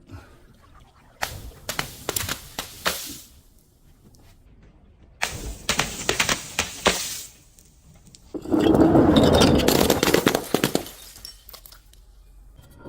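Brittle objects being crushed and breaking, with glass among them. Two clusters of sharp cracks and snaps come in the first seven seconds, then a louder, denser crunching lasts about two and a half seconds.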